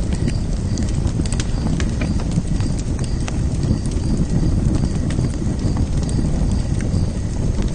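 Open fire burning steadily, a low rumble of flames with frequent sharp crackles and pops at irregular intervals.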